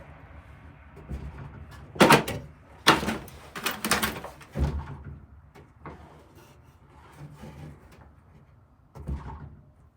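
Hand work on an old wooden cupboard: a series of sharp wooden knocks and clunks about two, three and four seconds in, and another near the end, with scraping between them.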